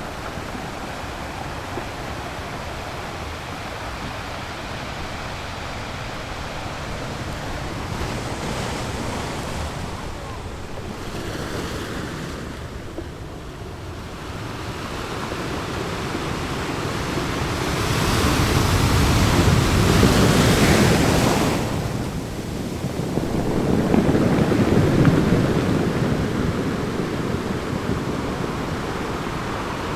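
Sea waves breaking and washing over a rocky shore: a steady surf wash with two big waves crashing in after about eighteen and twenty-four seconds.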